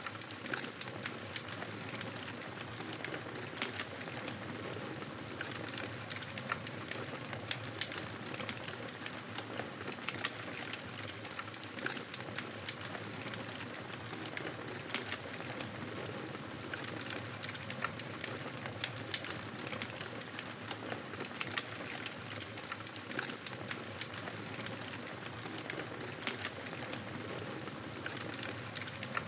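Wood fire crackling in a fireplace: a steady hiss with frequent small, sharp pops and snaps at irregular intervals.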